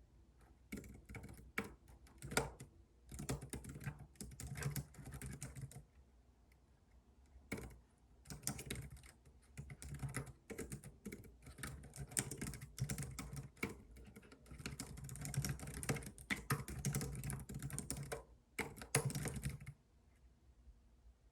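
Typing on a computer keyboard: runs of quick keystrokes broken by short pauses, stopping near the end.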